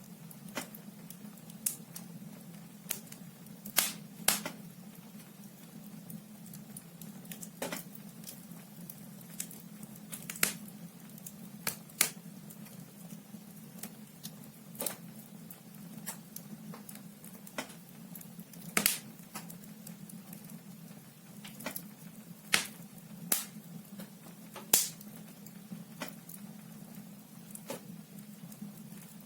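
Wood fire burning in a fireplace, the logs crackling and popping with irregular sharp snaps, about one or two a second, over a steady low hum.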